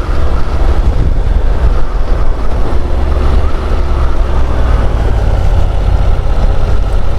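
Steady, loud wind rush and low rumble on a rider's microphone while riding a Honda NC750 DCT motorcycle, with the bike's engine faint beneath it.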